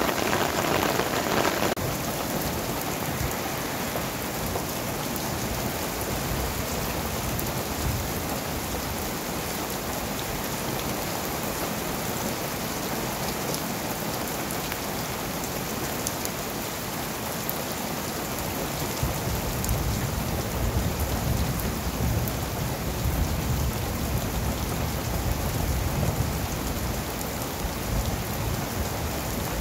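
Heavy rain shower pouring down steadily, drops hitting the ground and surfaces. A low rumble joins in about two-thirds of the way through.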